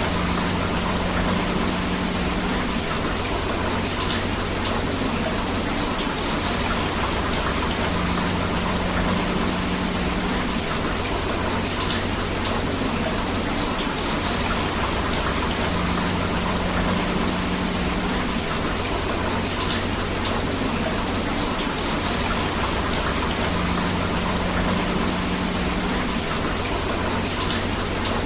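Steady heavy rain with rushing river water, an even, unbroken wash. A faint low hum comes and goes about every eight seconds.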